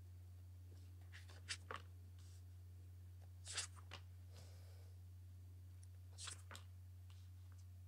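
Faint brief rustles and taps of tarot cards being handled, a few times over near silence, with a steady low hum underneath.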